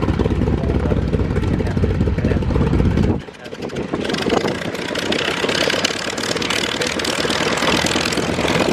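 A WWII fighter's piston engine idling with a low, pulsing rumble. About three seconds in it cuts off abruptly and gives way to a hissier engine and propeller sound that builds steadily.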